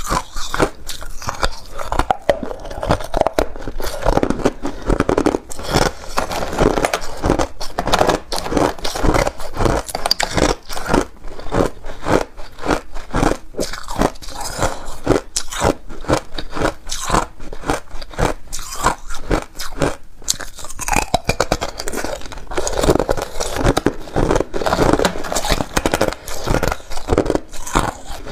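Close-up crunching of ice being bitten and chewed: a continuous run of sharp, irregular crunches and cracks.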